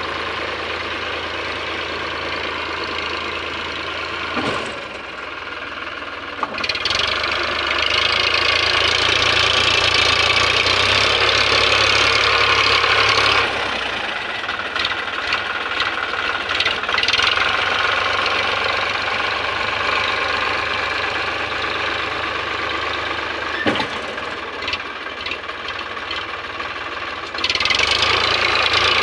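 Eicher tractor's diesel engine running with a knocking beat. It gets louder twice, a few seconds in and again near the end, with a quieter stretch between. A couple of short sharp clicks sound along the way.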